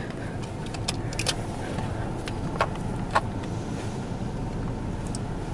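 Steady low hum inside a car waiting in an automatic car wash bay, with a few short, light clicks.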